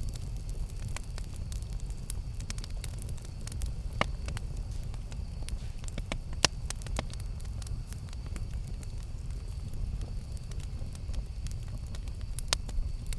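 Campfire burning: a steady low rumble of flames with scattered crackles and a few sharper pops of burning wood.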